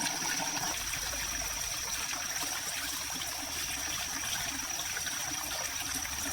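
Steady rush of running water, with a thin high-pitched tone held over it.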